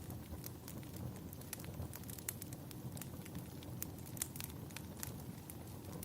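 Wood fire burning in a fireplace: a steady low rumble of flames with many irregular sharp crackles and pops.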